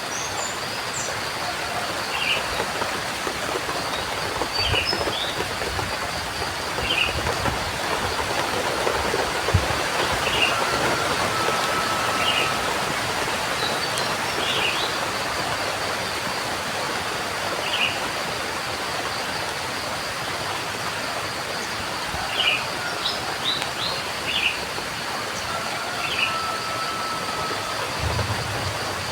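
Steady rain falling, with a bird repeating short chirps every second or two over it and a steady thin high whine underneath. A held whistled note sounds twice, about ten seconds in and near the end.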